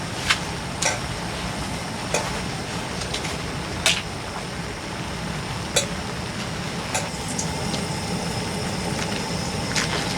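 Food cooking in a pan, with a utensil clicking against the pan every second or two over a steady rumbling hiss.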